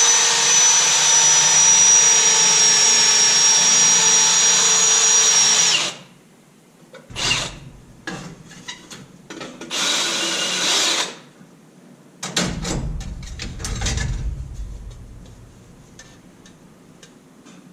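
Power drill running at speed for about six seconds, drilling out spot welds in the car's sheet-steel inner rocker panel, with a steady high whine; a second shorter run comes about ten seconds in, followed by scattered knocks and rattles of metal.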